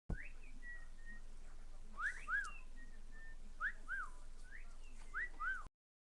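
Cockatiel whistling: four short phrases of quick rising and falling whistled notes, about one and a half seconds apart.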